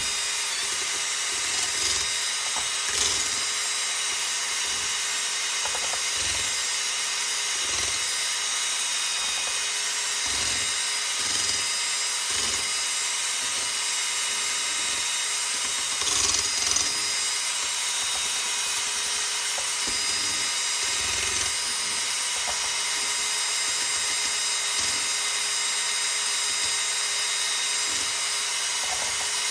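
Power drill spinning a wire whisk to whip egg whites into meringue, the motor whining steadily at high speed throughout, with irregular low knocks mixed in.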